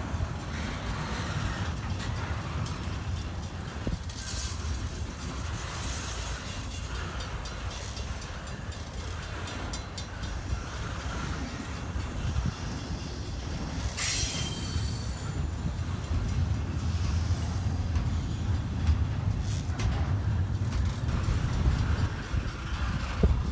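Freight train cars rolling past, a steady low rumble with wheel squeal. A brief high screech comes about two-thirds of the way through.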